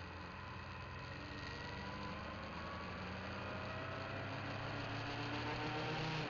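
Motorcycle engine accelerating, its drone rising slowly in pitch and growing louder as the bike pulls away.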